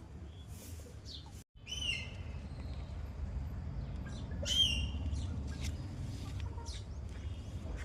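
Birds calling. Two louder calls, each a quick falling note that settles into a short held whistle, come about two seconds and four and a half seconds in, among scattered brief chirps over a steady low rumble.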